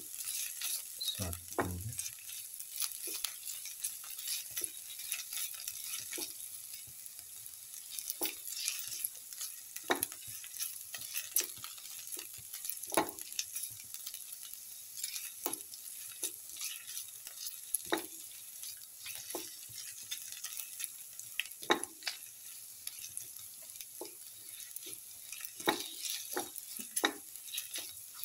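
Sliced shallots and ginger sizzling in oil in a steel pan, with a spatula scraping and tapping against the pan every second or two. There is one dull thump about a second and a half in.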